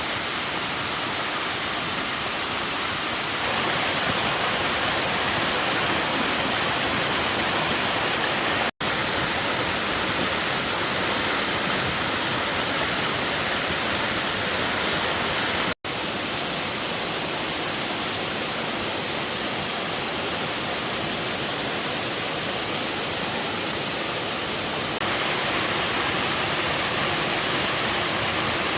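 Steady rushing noise of running water, even and without pitch. It cuts out to silence for an instant twice, about nine and sixteen seconds in, and steps up slightly in level about three seconds in and again near the end.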